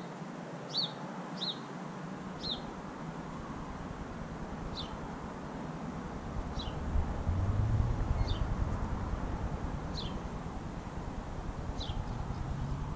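A small bird chirping in short, quick downward chirps: several close together at first, then one about every two seconds. A low rumble builds underneath from a few seconds in and is loudest near the middle.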